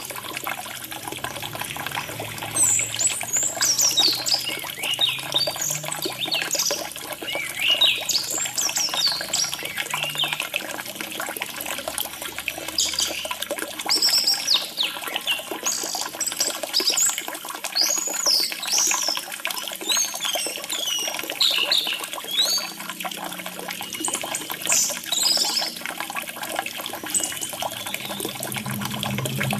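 Orange-headed thrush singing a long run of varied, quick whistled phrases that slide up and down in pitch, over steady trickling water.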